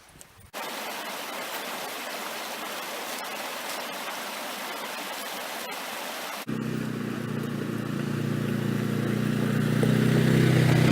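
A steady rushing noise like running water, then, about six and a half seconds in, a sudden switch to a louder engine hum with a low drone that grows steadily louder until it cuts off.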